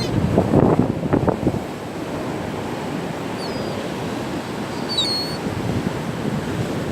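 Surf and wind buffeting the microphone, with gusts in the first second or so, and a few short, high-pitched seagull calls about three and a half and five seconds in.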